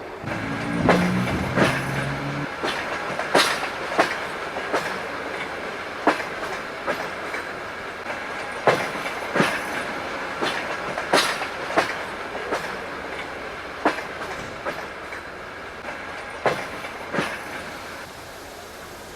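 A train rolls past slowly, its wheels clicking over a rail joint in pairs as each bogie's axles cross it, over a steady rumble. A brief low tone sounds near the start.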